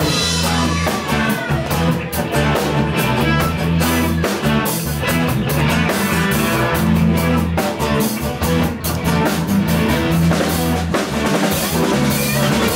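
Live rock band playing an instrumental passage between vocal lines: drum kit, bass and guitar, with no singing.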